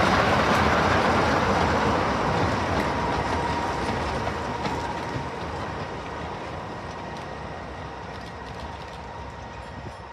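Diesel-hauled train going by and moving away, loudest at first and fading steadily. A thin steady whine holds from about three seconds in.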